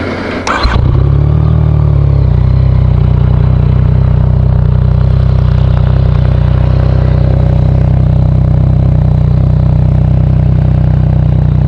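Yamaha FZ-09's 847 cc inline three-cylinder engine, breathing through a Two Brothers S1R aftermarket exhaust, starting less than a second in, running a bit faster for a moment, then settling into a steady, loud idle.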